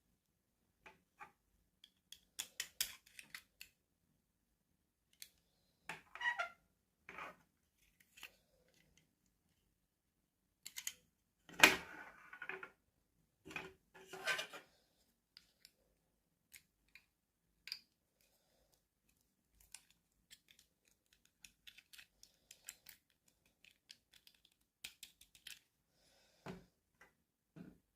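Toy packaging being opened by hand: scattered short clicks, snips and plastic rustles, with one louder knock about twelve seconds in.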